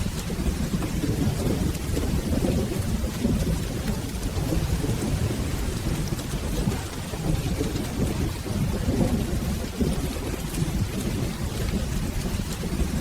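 Steady rain with a continuous low rumble of rolling thunder, an unbroken storm ambience with no distinct thunderclap.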